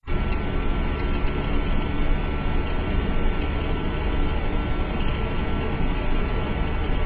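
Steady running noise of a vehicle, heavy in the low end with a few faint steady tones, cutting in suddenly out of silence.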